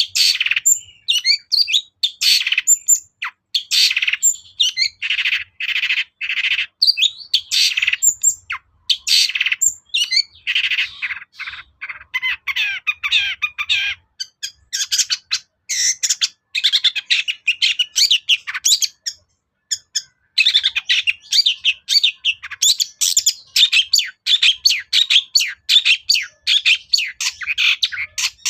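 Long-tailed shrike singing a fast, varied song of chattering and whistled notes in quick runs, with brief pauses twice.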